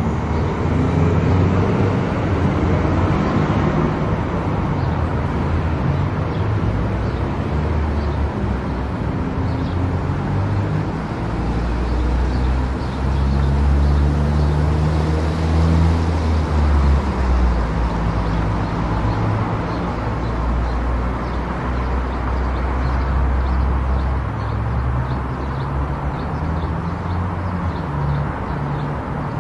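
Car driving at highway speed: steady tyre and road noise with a low engine drone whose pitch shifts, heaviest in the middle.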